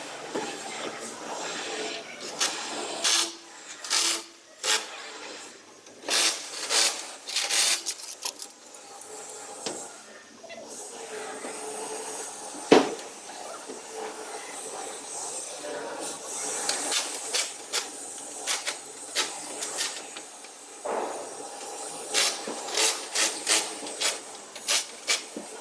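Bodywork on a truck cab panel: repeated short hissing, scraping strokes at an uneven pace, with one sharp knock about thirteen seconds in.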